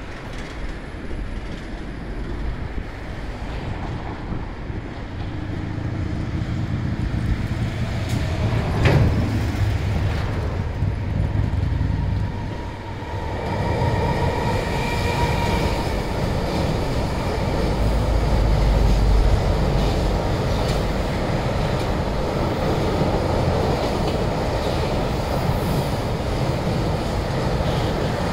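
JR Freight EF210 electric locomotive hauling a long container freight train, approaching and then passing close by. The rolling rumble builds, there is one sharp knock about nine seconds in, and a brief whine as the locomotive goes by. Then comes the steady wheel noise and clickety-clack of the container wagons rolling past.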